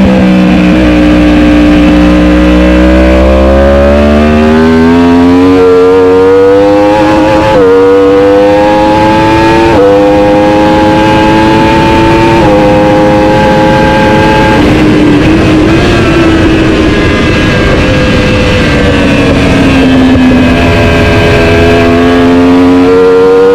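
Superbike engine under race load: the revs climb and drop sharply at three upshifts in quick succession. Around the middle they fall away as the bike slows and downshifts, then climb again near the end.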